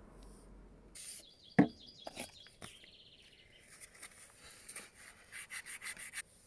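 Small birds chirping, ending in a rapid run of repeated high chirps, with a sharp knock about one and a half seconds in, the loudest sound, and a few lighter clicks.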